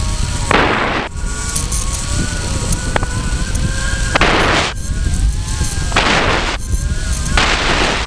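Strong gusty wind buffeting the microphone: a loud, constant low rumble with four hissing gusts that surge and drop back, and faint wavering whistling tones underneath.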